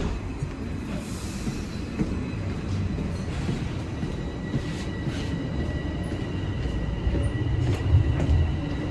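Subway train heard from inside the car as it moves off from the station: a low rumble of wheels and running gear with a thin, steady high whine from about two seconds in.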